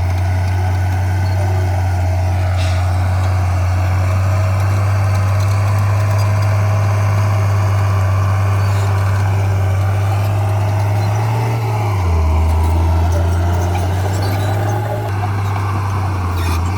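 Diesel engine of heavy earthmoving equipment running steadily. Its low note drops for a few seconds about twelve seconds in, then comes back up.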